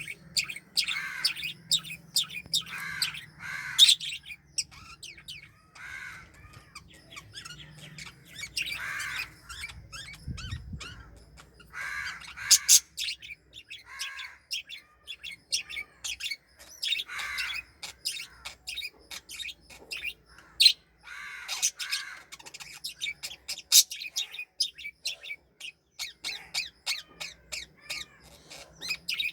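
Pet lutino pearl cockatiel chirping and calling over and over in quick short notes, with a few sharper, louder squawks among them.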